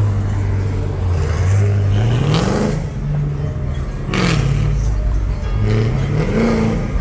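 Car engine being revved, its pitch climbing sharply about two and a half seconds in, dropping back, and climbing again near the end, with music playing underneath.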